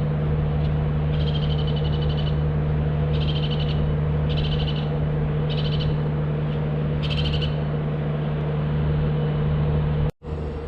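Steady rushing background with a low hum, over which a bird gives a short trilled call about seven times, a second or so apart.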